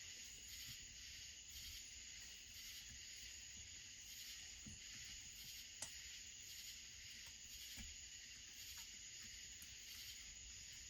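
Near silence: faint steady high-pitched hiss of room tone, with one small click about six seconds in.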